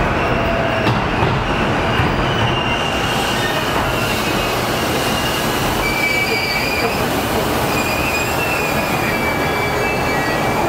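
Keihin-Tohoku Line E233-series electric train running, heard from inside the carriage as a steady rumble of wheels on rail. Thin, high wheel squeal comes and goes from about three seconds in.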